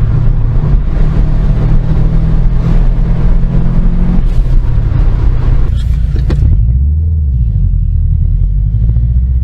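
Car engine and road noise on the move. The engine drone steps down in pitch about four seconds in, then the tyre and wind hiss fades at around six and a half seconds, leaving a lower steady engine drone as the car eases off.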